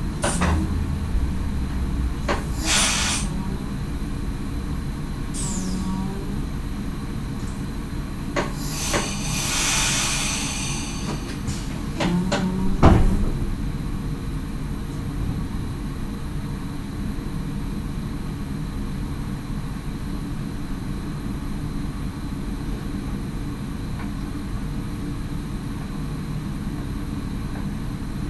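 Cab sound of an NS SGM Sprinter electric train: a steady low rumble with a few short clicks, a hissing burst lasting a couple of seconds around ten seconds in, and a single loud knock about thirteen seconds in.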